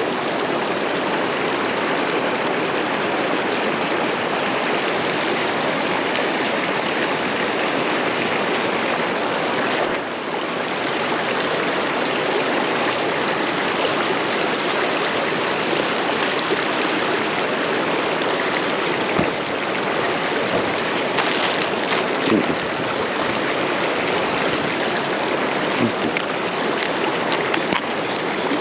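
Fast river water below a spillway rushing steadily.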